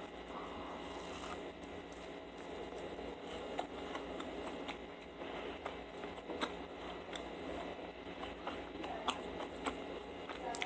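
A person chewing soft dried mango close to the microphone, with scattered small mouth clicks.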